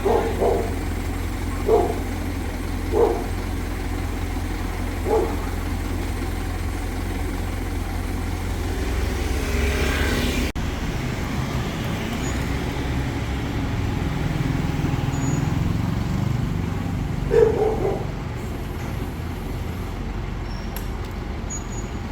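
Heavy engine of a crane or truck running steadily with a low hum. A few short, sharp calls stand out over it in the first five seconds and again near the end.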